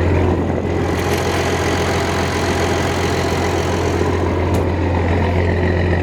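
Massey Ferguson 760 combine's six-cylinder Perkins turbo diesel idling steadily, with a strong low hum.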